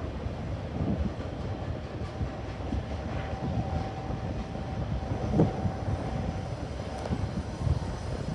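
Intermodal freight train's cars rolling past: a steady low rumble with wheel clatter, a thin steady squeal through the middle, and a sharp clank a little past halfway.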